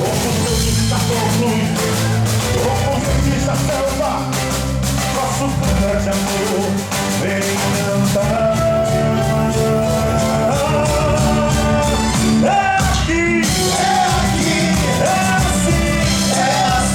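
Live boi-bumbá toada played by a band with dense, driving percussion and sustained melody, with a singing voice in parts.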